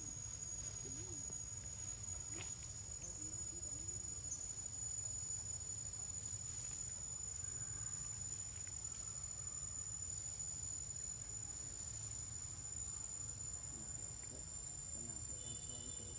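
Insects making a steady, high-pitched drone on one unbroken tone, over a low background rumble.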